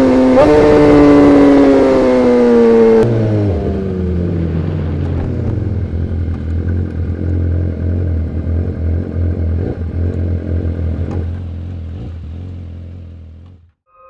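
BMW S1000RR inline-four engine with an Arrow Pro exhaust, running at high revs with its pitch falling steadily for about three seconds. It then drops to a lower, steady, pulsing note that slowly fades away near the end.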